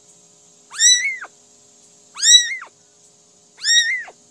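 A kitten meowing three times, about one call every second and a half. Each meow is short and high-pitched, rising and then falling.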